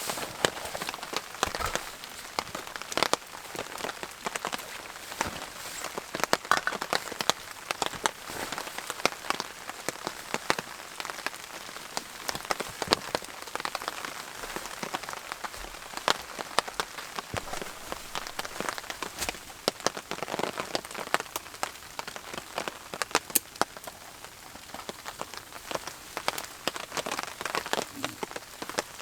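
Steady rain, with many separate drops striking sharply close by at irregular moments.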